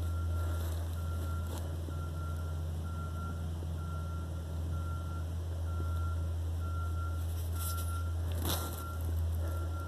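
A vehicle's reversing alarm beeping in a steady on-off rhythm, a single high tone a little more than once a second, over a steady low rumble. A couple of brief clicks come near the end.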